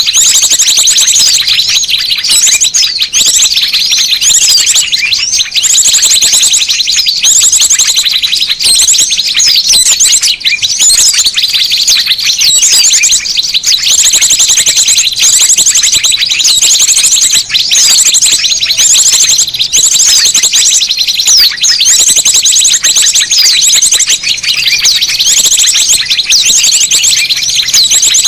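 Bird-lure recording of many small birds calling at once: a loud, dense, unbroken mass of high-pitched chirps, with rapid trills coming back every few seconds.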